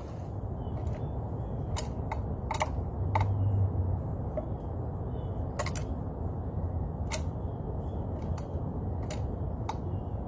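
A scatter of about nine sharp clicks and taps, irregularly spaced, with faint high chirps of small birds over a low steady rumble.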